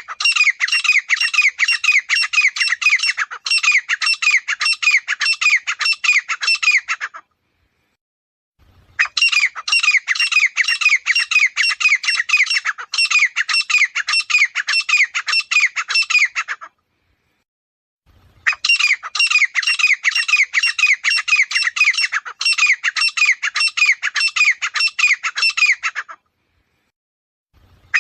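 Grey francolin calling: three bouts of rapidly repeated notes, each lasting about seven seconds, separated by short silent gaps, with a fourth bout starting at the very end.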